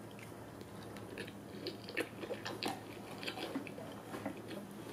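Close-up chewing of a mouthful of shrimp sushi roll, with soft, irregular small clicks and smacks, a few a second.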